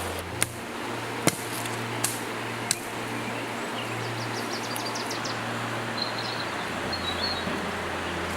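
Steady outdoor background noise with four sharp clicks in the first three seconds and faint high chirps about halfway through.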